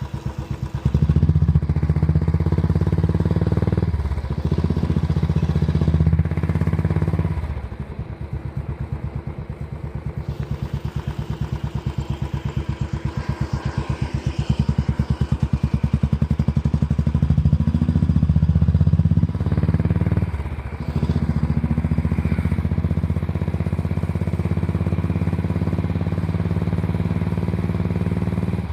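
Royal Enfield 500cc single-cylinder engine thumping as the motorcycle is ridden, rising and falling with the throttle and dipping briefly a few times.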